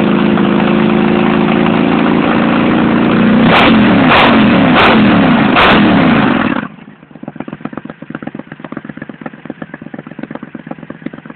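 Triumph Scrambler parallel-twin engine with an Arrow exhaust idling, then blipped four times, each rev climbing and falling back quickly. About two-thirds of the way through, the sound drops sharply to a much quieter, rapid, even pulsing idle.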